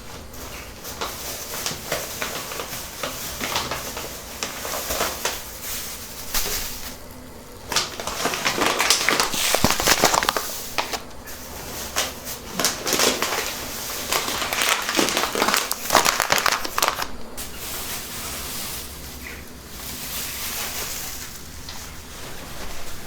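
Crinkling, rustling handling noise with many small clicks, louder in two stretches through the middle.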